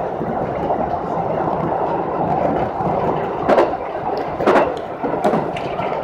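Local train running along the track, heard from inside the driver's cab: a steady rolling rumble, with a few sharp clacks of the wheels passing over rail joints in the second half.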